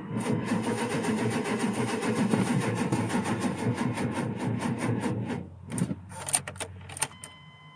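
Chevy Suburban's 5.7 L V8 being cranked by its starter on a nearly dead battery, turning over slowly and rhythmically without firing, for about five seconds before the cranking stops. A few clicks follow, and a steady high beep begins near the end.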